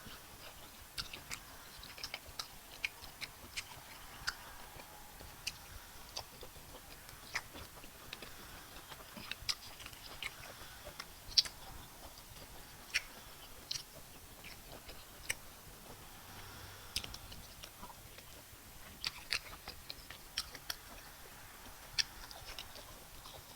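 A person eating fufu and bitter leaf soup close to the microphone: wet chewing with irregular sharp lip smacks and mouth clicks, one standing out louder about halfway through.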